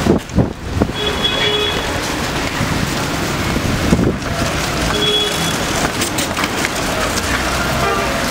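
Storm-force wind gusting in the street and buffeting the microphone.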